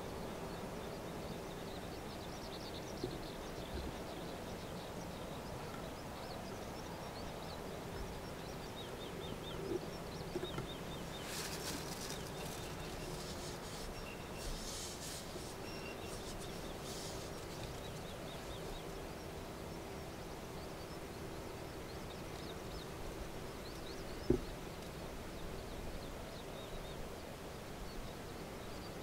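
Rural outdoor ambience: faint, repeated high chirps of small birds over a steady low hum. A brief rush of hiss comes a little before the middle, and there is a single sharp knock near the end.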